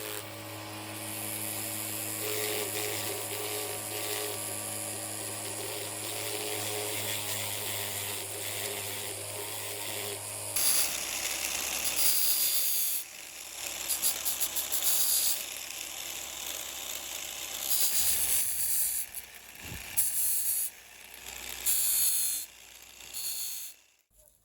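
An electric workshop tool hums steadily for about ten seconds. Then come several short bursts of high hissing noise, as of grinding or sanding against the workpiece, before it stops near the end.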